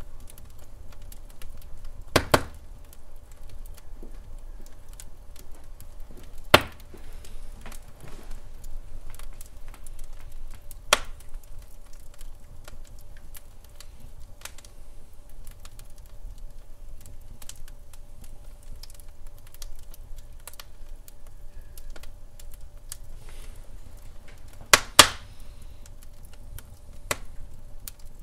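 Burning logs crackling in a fireplace: a low steady rumble of the fire with many small crackles and a few loud sharp pops, the loudest a double pop near the end.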